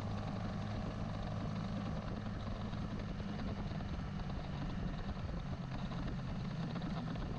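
Carbureted Honda CBR150R single-cylinder motorcycle engine running at a steady speed, a low, even hum.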